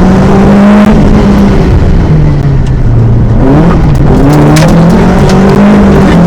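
VW Golf GTI Mk1 four-cylinder engine at full rally pace, heard from inside the cabin. Its pitch drops and climbs as the driver lifts and accelerates, with a quick gear change about two-thirds of the way in and a few sharp clicks near the end.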